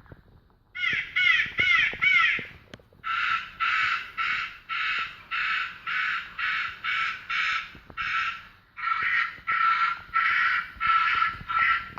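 Rook caws played back as a bird-scaring sample: after a brief lull, four caws with a gliding pitch, then a very regular run of harsh caws at about two a second.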